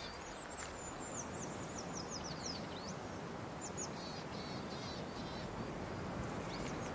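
Outdoor ambience: a steady hiss with a small bird calling high above it, first a quick run of short falling notes about a second in, then a few scattered chirps.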